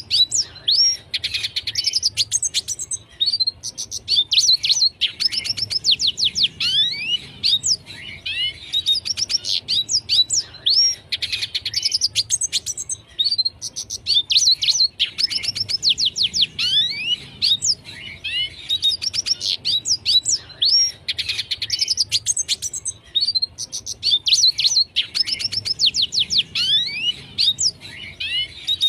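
Red siskin singing: phrases of quick, high twittering notes and sweeping slurred whistles, repeated every few seconds without pause.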